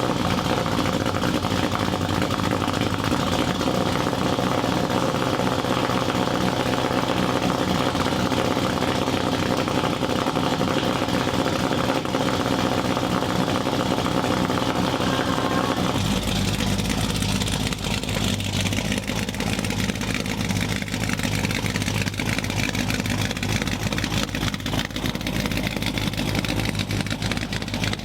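Cammed small-block Chevy V8, fitted with a Lunati Bootlegger cam, running through 2.5-inch dual cherry bomb glass-pack mufflers with turn-downs, just fired up and idling. About two-thirds of the way through, the sound turns deeper and duller.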